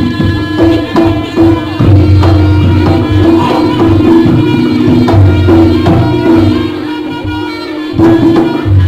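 Live jaranan music from a Javanese gamelan ensemble: hand-drum (kendang) strokes over sustained, ringing pitched tones and a low drone.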